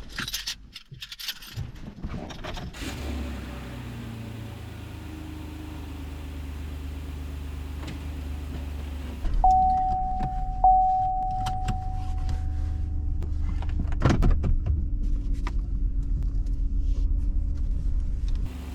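Chevy Silverado pickup from inside the cab: clicks and rattles at first, then the engine running steadily. About halfway through, a dashboard chime sounds twice and rings on for a few seconds. Later a knock comes, and a rougher rumble follows as the truck moves off over uneven ground.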